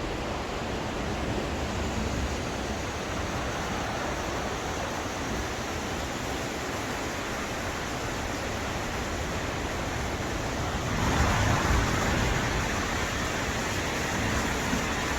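Steady rushing noise of wind and rumble from aboard a moving freight train, swelling louder for a moment about two-thirds of the way through.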